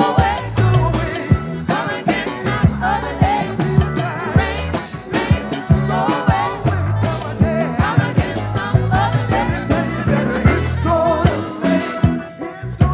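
Live gospel-funk band playing with drums keeping a steady beat, bass, keyboards and wavering vocal lines.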